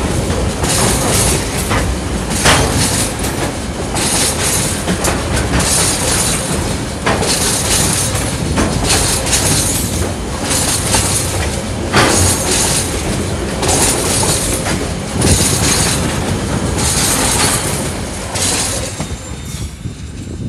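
Loaded container wagons of a freight train rolling past at close range. The steel wheels clack over rail joints in a repeating rhythm under a continuous rumble and hiss, easing a little near the end as the last wagon goes by.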